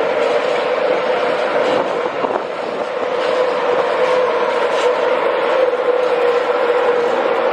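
A train running close by: a loud, steady running noise with a constant mid-pitched hum.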